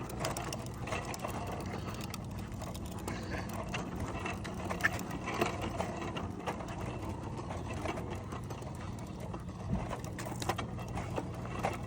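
Steady rolling noise of riding along a paved path: a low, even hum with a haze of tyre and wind noise and a few short clicks.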